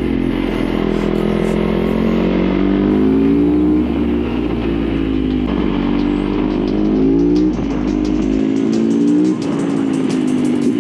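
Yamaha YZ450F supermoto's single-cylinder four-stroke engine under way, rising in pitch and dropping back three times as it accelerates through the gears.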